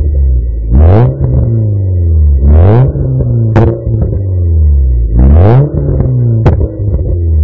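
Volkswagen Polo 6N 1.4 16V four-cylinder engine through a Burg aftermarket exhaust, revved in three quick blips, each rising sharply and then dropping back slowly. Two sharp pops sound as the revs fall.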